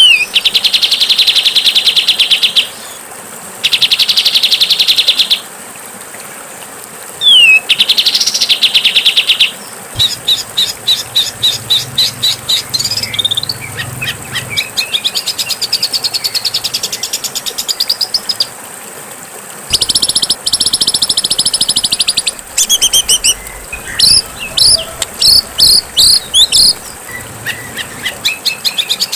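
Songbird song: loud, harsh buzzy trills and fast rattling series of high chips, coming in bursts with short pauses, over a steady faint hiss.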